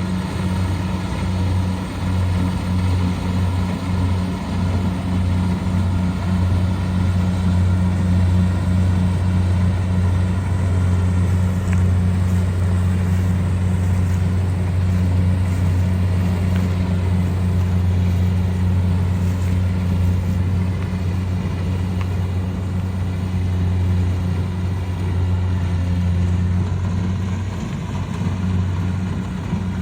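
Rice harvester's engine running steadily under load, a constant low hum.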